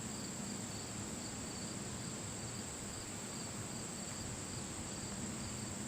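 Steady high-pitched chorus of summer insects, an unbroken even drone that holds its pitch throughout.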